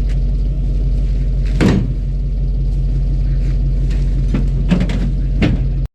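Truck engine running steadily at low speed, with a few sharp clicks, the loudest about a second and a half in; the sound cuts off abruptly near the end.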